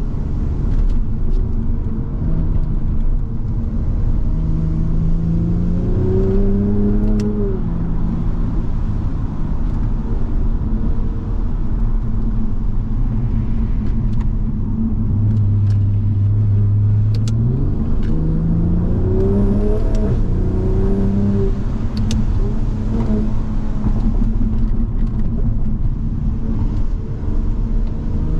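Toyota Supra MK5's turbocharged straight-six under way, its pitch climbing as it pulls for a few seconds about a quarter of the way in and again past the middle, then dropping as it eases off. Steady tyre and road noise runs underneath.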